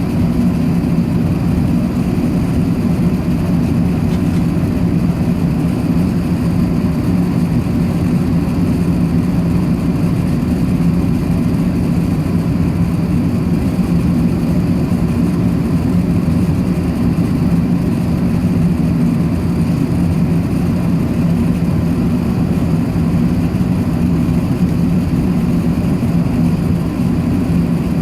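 Steady cabin drone of an Airbus A380-800 in flight, heard inside the passenger cabin: engine and airflow noise, a low hum with a fainter hiss above it, unchanging.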